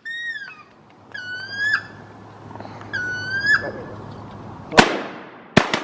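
Three squealing wood duck calls, each sliding upward in pitch, followed near the end by two shotgun shots under a second apart.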